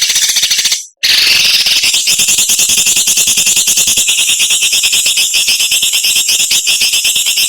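A songbird's harsh, high-pitched rasping call of the kind bird keepers call besetan: a short burst that breaks off just under a second in, then one long unbroken, very fast rattling buzz.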